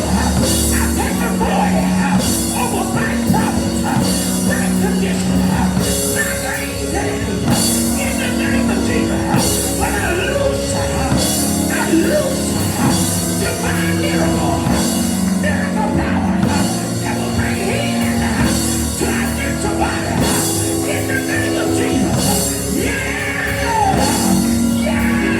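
Live church praise music with a full drum kit, cymbals crashing at regular intervals, over held keyboard chords, with voices of the congregation singing and shouting praise over it.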